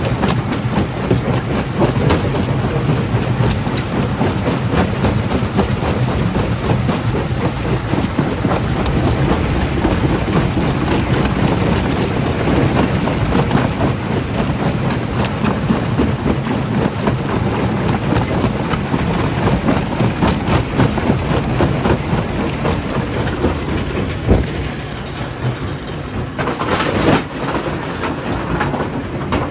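A primary jaw crusher at a stone-crushing plant running, with a continuous dense clatter of rock being crushed. There is one sharp knock about 24 seconds in and a brief harsher, hissing rush a couple of seconds later.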